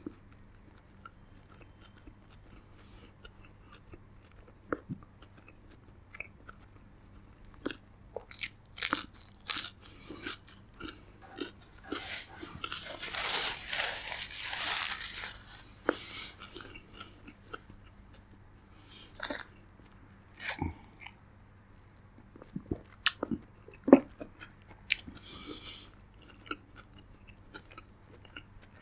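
Close-miked eating: chewing with sharp, crisp crunches of fried spring rolls scattered through, and a longer noisy stretch in the middle.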